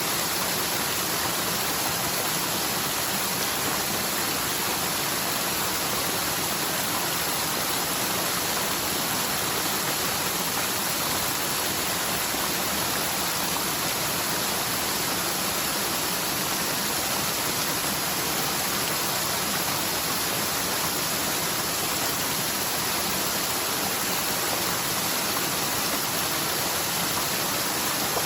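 Steady rush of a forest mountain stream swollen by heavy typhoon rain, water tumbling down its bed.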